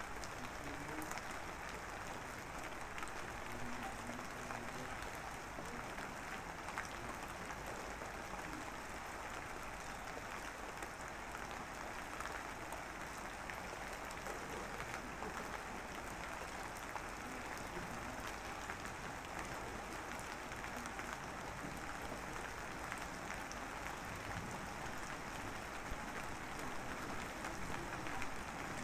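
Steady rain falling, a dense, even patter with fine scattered drop crackles.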